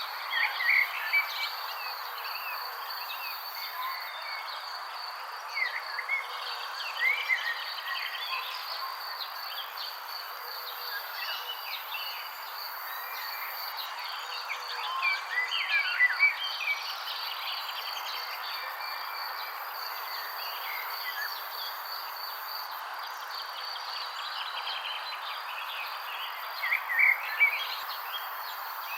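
Small birds chirping in short clusters of quick calls over a steady high insect trill and an even background hiss. The loudest bursts of chirps come about a second in, around six to seven seconds in, around fifteen to sixteen seconds in, and near the end.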